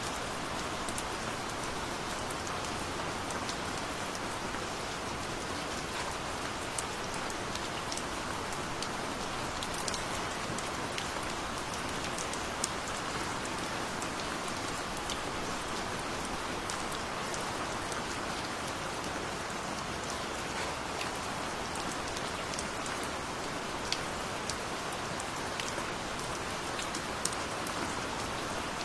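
Steady rain falling, an even hiss with many distinct single drops ticking on a surface.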